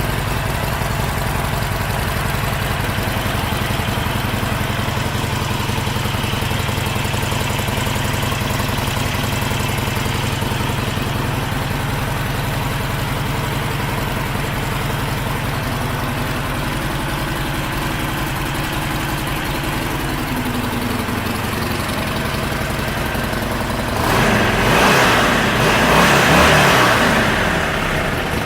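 Harley-Davidson Sportster Forty-Eight's air-cooled 1200 cc V-twin idling steadily. Near the end it gets louder and rougher for a few seconds, in two swells.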